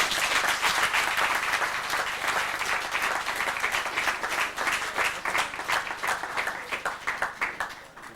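Audience applauding, a dense steady clapping that stops fairly abruptly just before the end.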